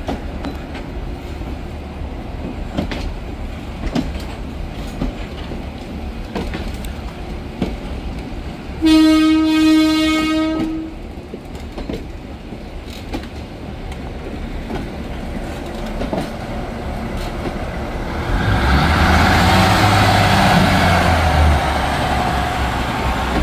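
Locomotive-hauled train moving through the station with a steady rumble and wheels clicking over rail joints. The locomotive's horn sounds one blast of about two seconds some nine seconds in, and the locomotive's engine grows louder near the end.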